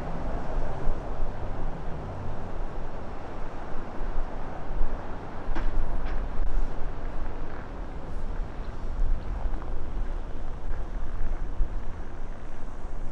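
Gusting storm wind buffeting the microphone through a windshield that can't hold it back, a rough rushing noise with heavy low rumbles that rise and fall.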